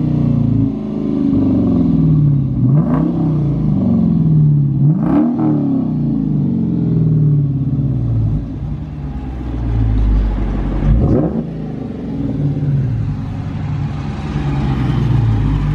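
2015 Dodge Challenger R/T's 5.7-litre Hemi V8, mufflers cut off so it runs straight-piped, revved three times. Each blip rises quickly and falls back to idle, and the engine settles into a steady idle near the end.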